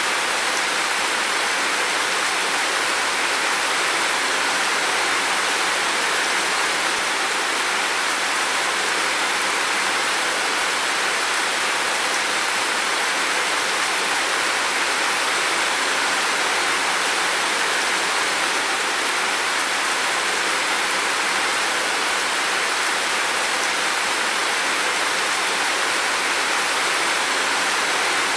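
Heavy rain falling steadily, a dense even hiss with no individual drops standing out.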